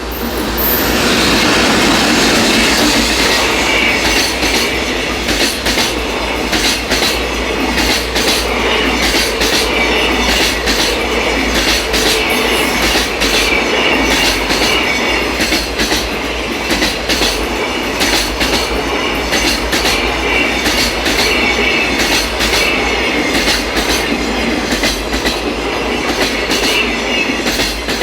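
A long freight train passing at close range: the rush of the locomotive arrives about a second in, then the wagons' wheels click steadily and rapidly over the rail joints, with a high wheel squeal ringing underneath throughout.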